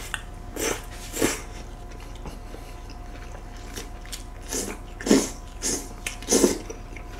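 People biting into and chewing soft-bun shrimp burgers, heard as several short mouth sounds a second or so apart.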